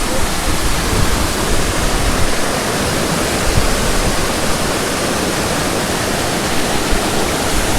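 Aber Falls waterfall: water falling and crashing in a loud, steady rush, heard close to the falls.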